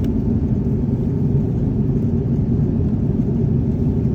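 Steady low rumble of an airliner's cabin in flight: engine and airflow noise heard from inside the cabin.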